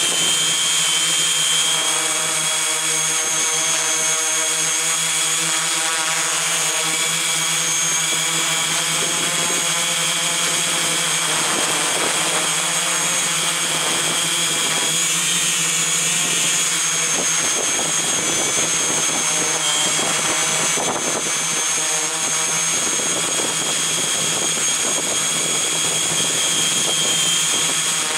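Electric motors and propellers of a multirotor drone running steadily in flight, with a high, steady whine over a rushing noise.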